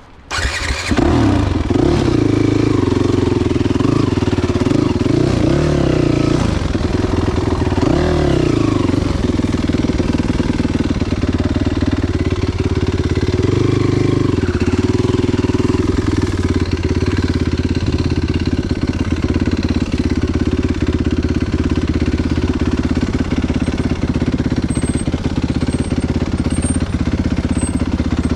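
Enduro motorcycle engine cuts in loud about a second in after a brief lull. The revs rise and fall repeatedly over the next several seconds and again around the middle, then it runs at a steadier pitch.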